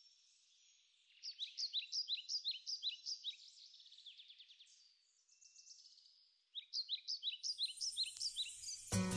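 Birdsong: short, high, falling chirps repeated several times a second, easing off briefly about five seconds in and then resuming. Guitar music starts right at the end.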